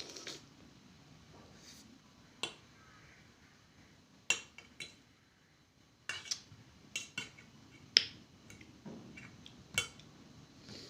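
Close-miked eating sounds: a dozen or so sharp, crisp clicks and crunches at irregular intervals as food is bitten and chewed, the loudest about eight seconds in.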